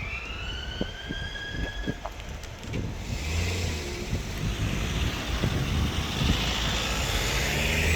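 Stadler Flirt electric multiple unit moving off: its traction motors give a whine that rises in pitch over the first two seconds. From about three seconds in, a steadier rolling rumble and hiss of the train running past grows louder.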